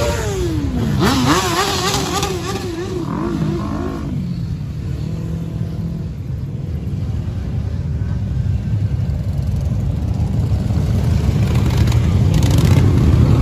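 Many motorcycle engines running in a low, steady rumble. A wavering tone that falls, rises and wobbles up and down sounds over the first four seconds. The engine noise grows louder near the end.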